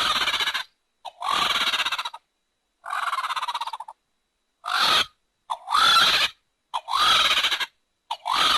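Designed creature calls for the pterosaur Hatzegopteryx: about seven rough, rattling calls, each under a second long, separated by short silences, some rising in pitch at the start.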